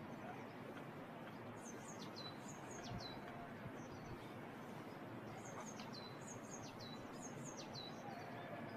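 A small songbird singing over a steady rushing background: runs of short high notes that each drop sharply in pitch, one run about two seconds in and another from about five and a half seconds.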